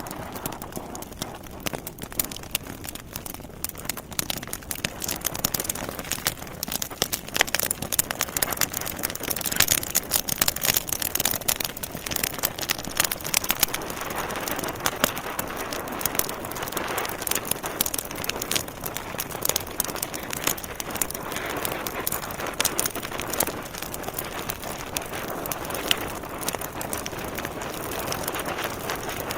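Wood fire crackling in a fireplace: a steady hiss of burning logs with many irregular sharp pops and snaps, busiest around the middle.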